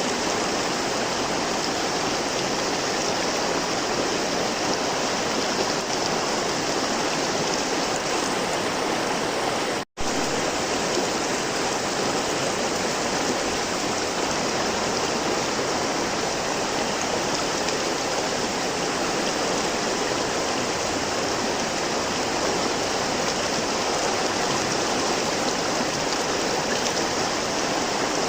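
River water flowing in a steady, continuous rush, with a split-second dropout about ten seconds in.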